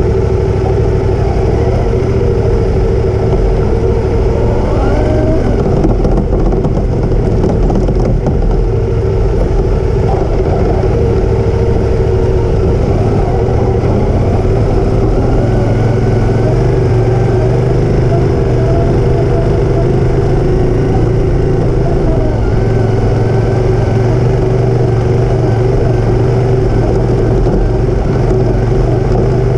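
Motorcycle engine running steadily, with an even, unbroken drone whose low tone shifts slightly about halfway through.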